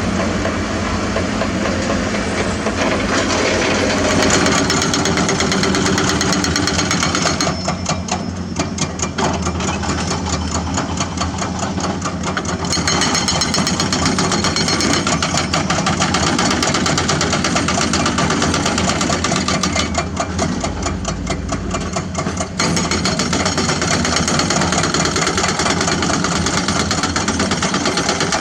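Diesel engines of excavators and dump trucks running steadily, with a fast, even knocking beat.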